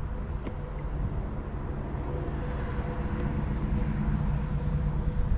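Insects, crickets or the like, keeping up a steady high-pitched drone, over a low rumbling noise that grows louder toward the end.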